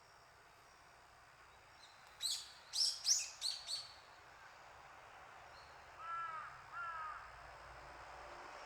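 Birds calling: a quick run of five short, high, sharp calls, then a couple of seconds later two lower, clearer calls, over faint steady background noise.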